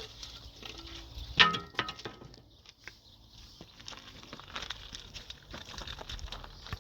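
Scattered knocks and rustling of things being handled, with one loud knock about a second and a half in that rings briefly.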